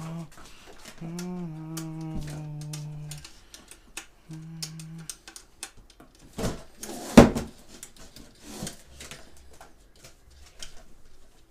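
A man humming three long, level low notes in the first five seconds, then scattered clicks and knocks of hard parts being handled, with one sharp knock about seven seconds in.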